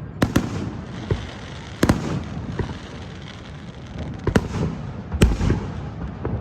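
Aerial fireworks bursting: a series of sharp bangs, two close together at the start, another near two seconds in, and two more between about four and five seconds in, with crackling and rumbling between them.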